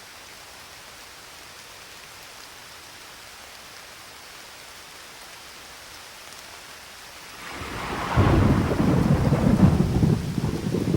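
Steady rain hissing, then about three-quarters of the way in a loud roll of thunder breaks in, rumbling and crackling low and still going at the end.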